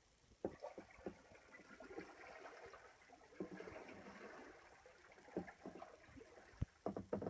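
Faint splashing and trickling of water from kayak paddling, with scattered light knocks and several close together near the end.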